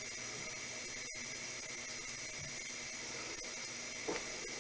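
Room tone: a steady faint hiss, with a small click about four seconds in.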